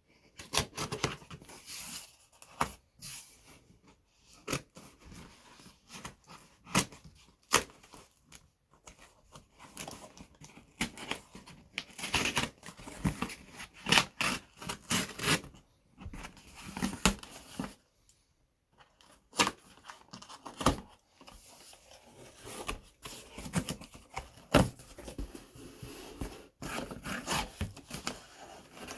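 Cardboard box and packaging being unpacked by hand: tape and packing material tearing, plastic and cardboard rustling and crinkling, with irregular knocks and clicks. There is a short pause about two-thirds of the way through.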